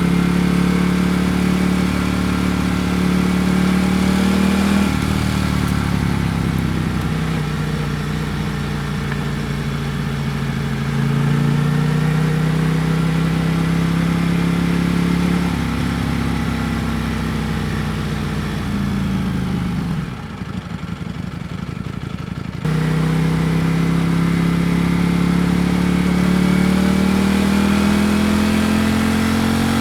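Ducati Panigale V4 S's V4 engine riding along: its pitch climbs steadily under throttle, drops at gear changes and sinks as it eases off. About two-thirds through it falls to a low, pulsing idle for a couple of seconds, then comes back in abruptly and rises again.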